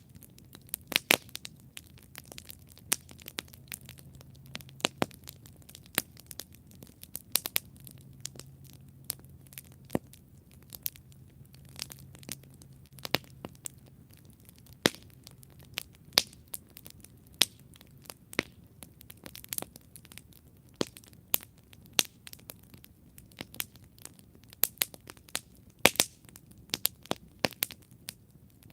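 Campfire crackling, with sharp irregular pops and snaps, several a second, over a soft bed of burning hiss.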